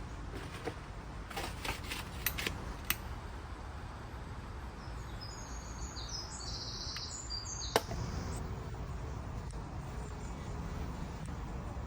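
Outdoor ambience of small birds chirping, with a steady low rumble and a few sharp clicks early on, then a single sharp knock about eight seconds in.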